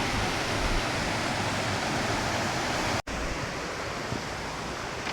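Steady rush of river water pouring over a weir on the River Ribble. The sound breaks off briefly about three seconds in and resumes a little quieter.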